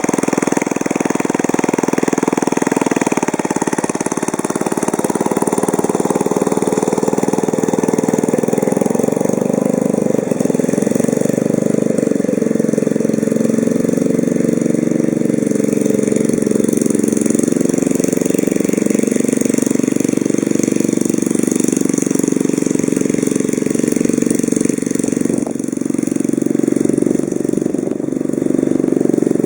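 Small Briggs & Stratton single-cylinder engine on a restored mini lawnmower running steadily, its note rising and falling a little.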